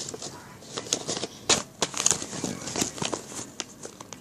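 A sheet of plain paper being folded up and creased by hand: irregular crinkling and rustling, with a few sharper crackles in the middle.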